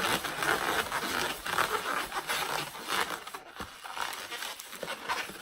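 Latex 260 twisting balloons rubbing and squeaking against each other as the two tail ends are spiraled together by hand. The scratchy rubbing thins out about three and a half seconds in.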